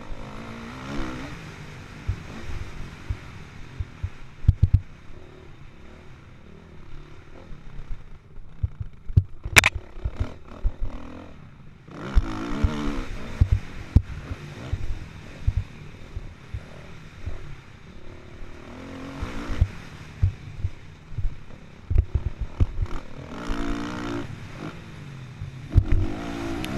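Kawasaki KX450F single-cylinder four-stroke motocross engine revving up and falling off again and again as the bike is raced over a dirt track, with many short knocks and clatter from the bike over bumps. One sharp crack about nine and a half seconds in.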